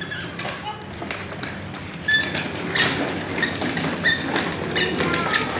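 Scattered short squeaks mixed with taps and thumps, coming irregularly and more often from about two seconds in.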